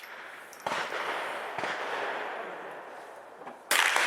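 Gunshots from a Sig 522 .22 rimfire rifle: a shot about two-thirds of a second in, a fainter one a second later, and a louder shot near the end, each with a short echo.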